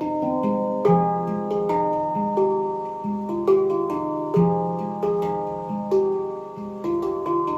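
Handpan played in a slow, flowing melody: notes struck one after another, each ringing on and overlapping the next.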